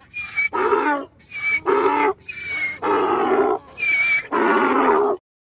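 Donkey braying: about four hee-haws in a row, each a high thin note followed by a lower, fuller one. It cuts off abruptly shortly before the end.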